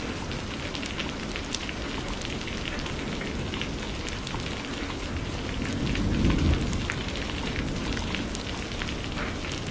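Steady rainfall, with many sharp individual drop hits over an even hiss. A low rumble of distant thunder swells about six seconds in and fades.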